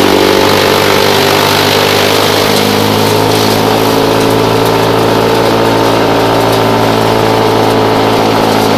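Tractor's diesel engine running steadily under power, driving a PTO chaff cutter, with a constant drone.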